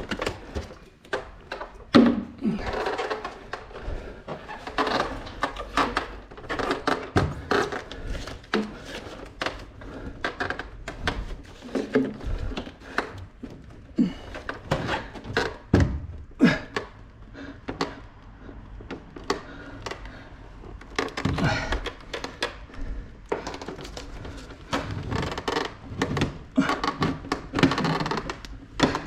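Irregular clicks, knocks and rustling from hands working an air conditioner's indoor unit, its plastic casing and the piping bundle, to hook it onto its wall plate.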